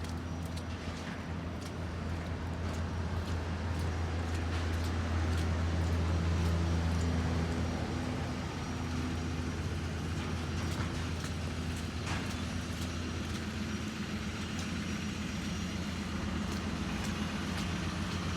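A motor vehicle's engine running as a steady low hum that grows louder around five seconds in and then eases back, with faint clicks over it.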